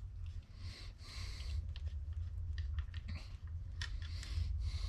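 A few faint metallic clicks and taps as a bolt is taken out and transmission parts are handled, over a steady low hum, with short breath-like rustles in between.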